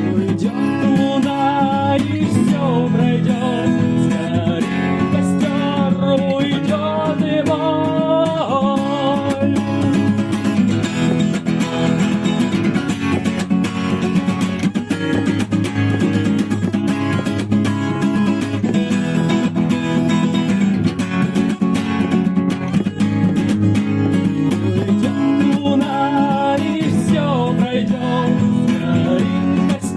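Strummed acoustic guitar playing an instrumental passage of an acoustic rock song. A wavering melodic line rides over it in the first several seconds and again near the end.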